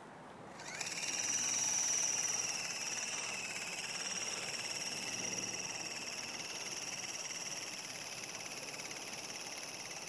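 Radio-controlled helicopter spooling up with a rising whine about a second in, then running with a steady high-pitched whine.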